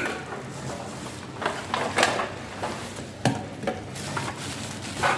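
A handful of short, sharp clinks and knocks of hard objects, about five, spread unevenly over a steady background hum.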